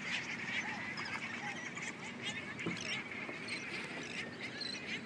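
A chorus of California sea lions barking, short honking calls repeated over and over.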